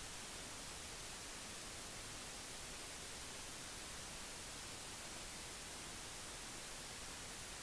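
Steady faint hiss of recording noise, even from start to end, with no distinct sound standing out of it.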